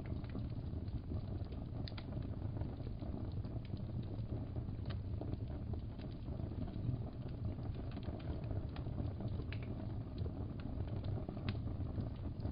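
Wood fire crackling in a fireplace: a steady low rumble and hiss with scattered sharp pops every second or few.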